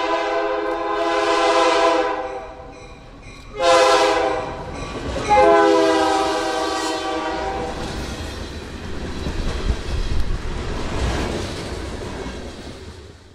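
Mass Coastal diesel locomotive 2007's multi-note air horn blowing three blasts, a long one, a short one and another long one that falls in pitch as the locomotive passes close by. Then a string of loaded hopper cars rolls past with a low rumble and wheels clacking over the rail joints.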